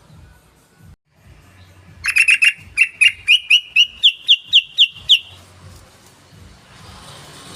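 Yellow-vented bulbul (trucukan) calling: about two seconds in, a quick cluster of notes leads into a run of about a dozen sharp, slurred notes at roughly three a second, rising slightly in pitch and stopping after about three seconds.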